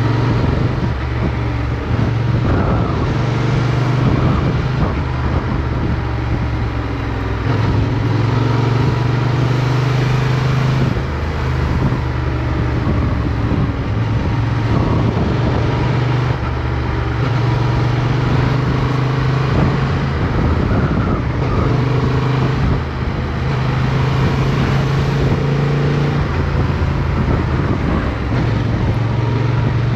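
Motorcycle engine heard from an onboard camera while riding, its note rising and falling several times as the throttle opens and closes through the bends, with steady wind and road noise.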